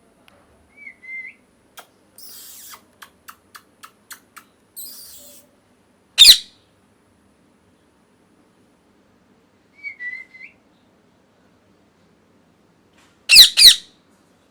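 A small animal calling: two soft, short chirps, one about a second in and one near ten seconds, and three loud, shrill squawks, one about six seconds in and two in quick succession near the end. Between the first chirp and the first squawk there is rustling with a run of light clicks.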